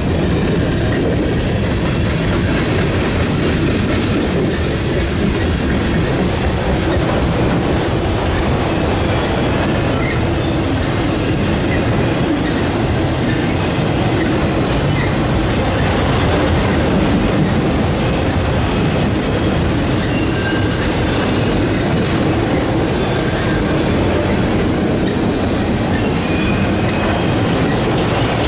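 Freight train of multi-level autorack cars rolling past at steady speed: the continuous rumble and clatter of steel wheels on the rails, with a few faint short wheel squeals.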